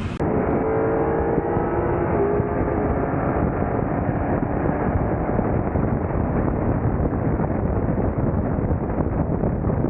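Car on the move: a steady engine drone under rushing wind and road noise. A pitched engine tone stands out for the first few seconds, sagging slightly, then blends into the rumble.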